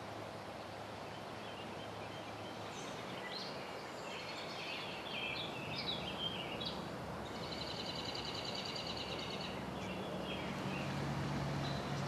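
Outdoor ambience in which a songbird sings a varied, chattering song for several seconds, with a rapid repeated trill about halfway through. A faint steady low hum comes in underneath near the end.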